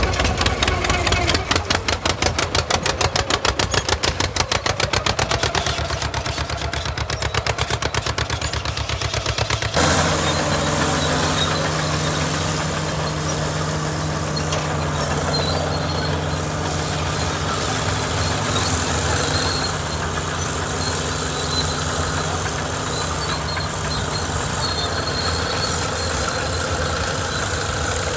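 Tractor engines running under load while plowing: a rapid, evenly pulsing exhaust beat for about the first ten seconds, then it changes abruptly to a steady engine drone.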